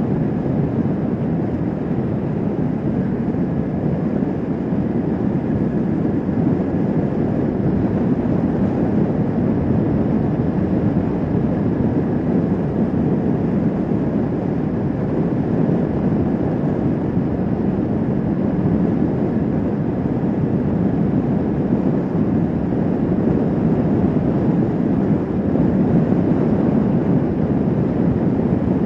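Kawasaki Vulcan S 650's parallel-twin engine running steadily at cruising speed, mixed with wind rushing over the microphone.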